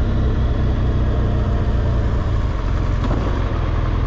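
BMW R1200GSA's flat-twin boxer engine running steadily on the move, a constant low drone.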